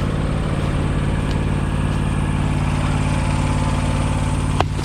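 Riding lawn tractor engine running steadily, with one sharp click near the end.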